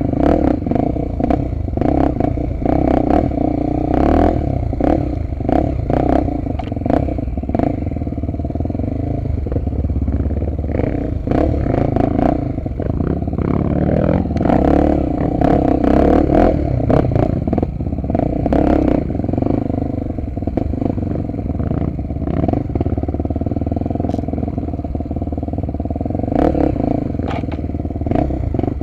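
Honda XR250 Tornado's single-cylinder four-stroke engine running steadily while riding, with frequent clattering knocks.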